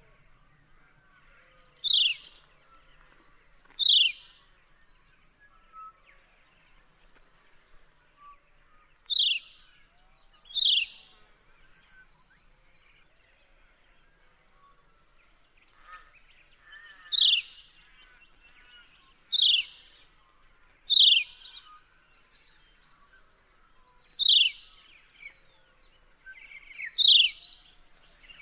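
Horsfield's bronze cuckoo calling: single piercing whistles that each slide down in pitch, about nine of them, spaced irregularly one to six seconds apart.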